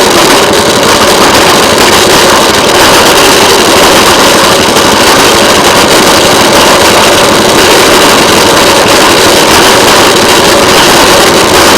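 Railway motorcar (speeder) running steadily along the track, its small engine loud and even, with no change in speed.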